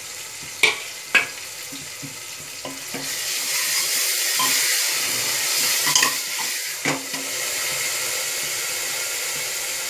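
Garlic, coriander and green chilli chutney sizzling in hot oil in an aluminium pressure cooker as it is stirred, with a few sharp knocks against the pot. The sizzle grows louder about three seconds in and then holds steady.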